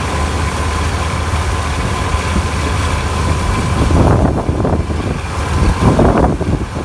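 Preet 987 combine harvester's diesel engine running steadily, a low drone with a steady whine above it. From about four seconds in, an irregular crackling, rushing noise joins it.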